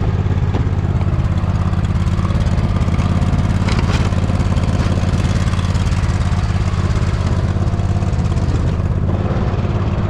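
Poulan riding lawn mower's engine running steadily while the mower pushes a front snow plow blade.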